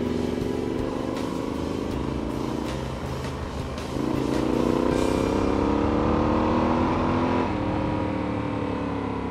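Yamaha Super Tenere XT1200Z parallel-twin engine accelerating up through the gears. The pitch climbs, drops at a gear change about four seconds in, climbs again, and drops at a second shift about seven and a half seconds in.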